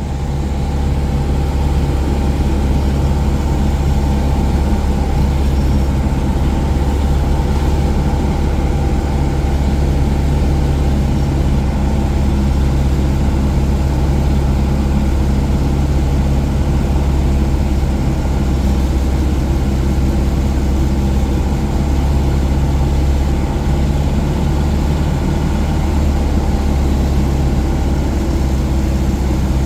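Engine and propeller of a Cessna 177 Cardinal single-engine light aircraft running at a steady, even power setting, a constant low drone with no change in pitch.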